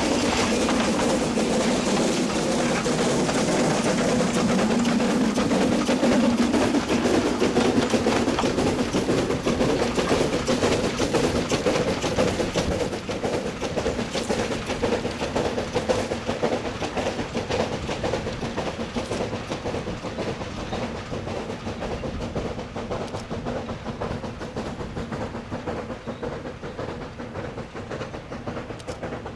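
Narrow-gauge coal train hauled by a C2 steam locomotive rolling by, its wheels clicking over the rail joints over a steady hum, dying away over the second half as it goes off.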